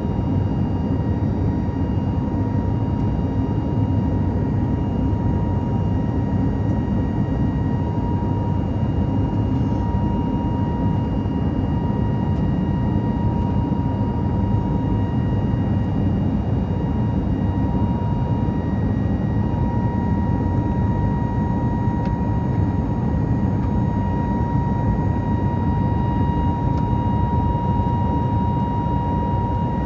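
Cabin noise of an Airbus A320 airliner in flight: a steady engine and airflow rumble with a constant whine running over it.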